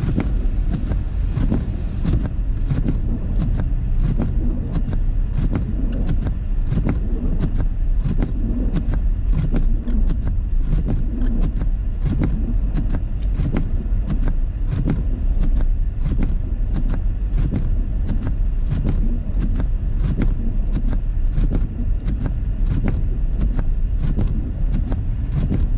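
Car driving through snow, heard from inside the cabin: a steady low road and engine rumble with a quick, regular ticking about twice a second.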